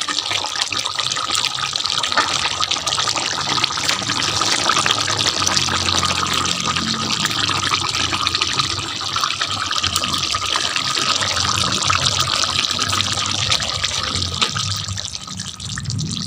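A steady, crackly hiss of running or bubbling liquid, easing off slightly near the end.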